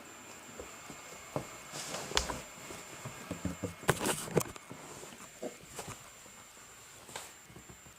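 Scattered light taps and clicks at irregular intervals, a little louder around two and four seconds in, over a faint steady high whine.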